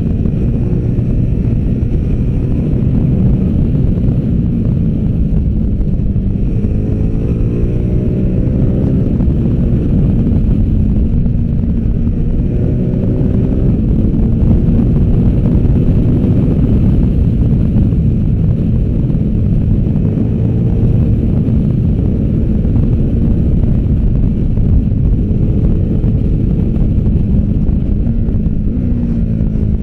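V-twin adventure motorcycle engine under way at speed, its note climbing through the revs and dropping back several times as the rider accelerates and shifts.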